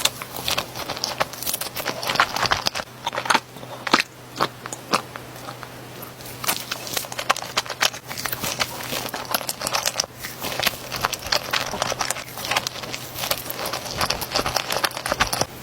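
Close-miked eating of Nutella crepe rolls: biting and chewing with many small crisp crackles and clicks.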